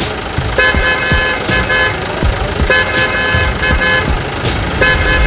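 A vehicle horn honking in repeated blasts, a longer blast followed by a shorter one, three times over, above a steady low rumble.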